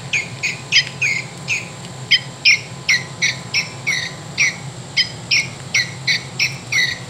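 Wild Republic Audubon plush mountain bluebird's built-in sound box playing its recorded mountain bluebird call: a long series of short, downward-sweeping chirps, about three a second, with a brief pause about a second and a half in. A steady low hum runs beneath.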